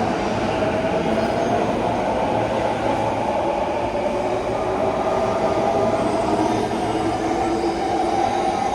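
Tokyo commuter train running on the rails: a steady rumble of wheels and carriage with a faint whine that rises slightly in pitch toward the end.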